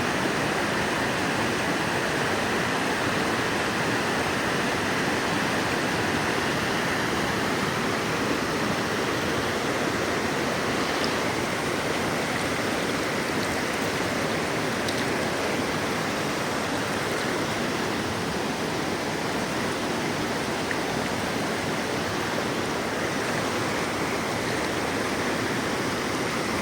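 Waterfall at a reservoir dam, water rushing and splashing in a steady, unbroken roar.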